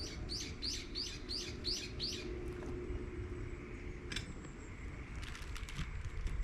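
A songbird calling: a quick run of about seven sharp, high, falling notes over the first two seconds, then a single note and a few scattered chips later on, over a steady low background rumble.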